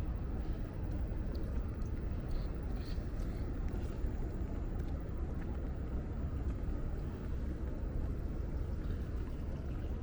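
Steady low rumble of city street ambience with distant traffic, with a few faint short high-pitched sounds.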